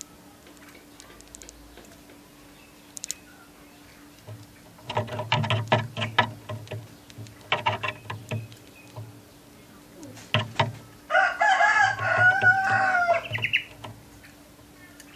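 A rooster crowing once, about eleven seconds in, after several seconds of rapid pulsed calls from the fowl.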